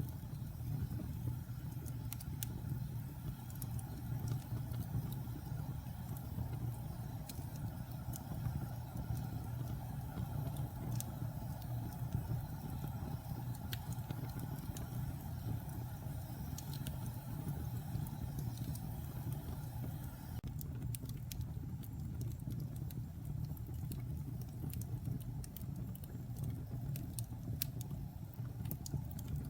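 Wood fire burning in a fireplace: a steady low rumble with scattered sharp crackles and pops, which come more often in the last third.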